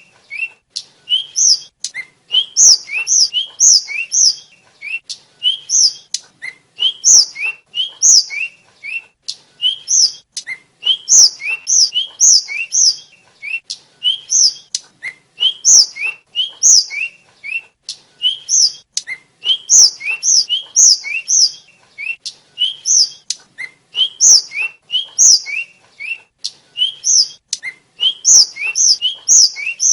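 Tledekan (sikatan flycatcher) singing without pause, repeating a short phrase: one or two rising notes, then bright, high, clear notes, several phrases every few seconds.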